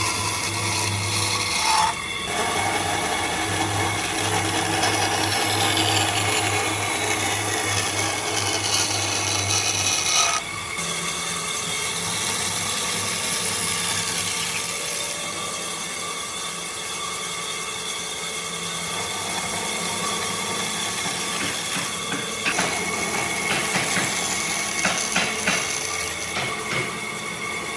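Power tool working wood, its motor running with a steady hum under the noise of the wood being worked. The sound changes abruptly about two seconds in and again about ten seconds in.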